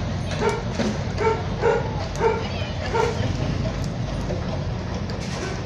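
A dog barking, about six short barks in the first three seconds, then stopping, over a steady low rumble.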